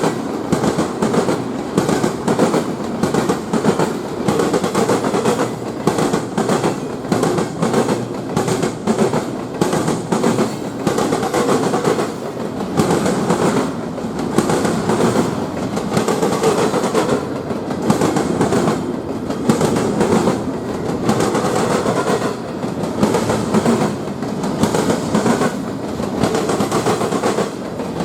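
A train rolling past: a steady heavy rumble, with frequent clicks and clacks of the wheels over the rail joints.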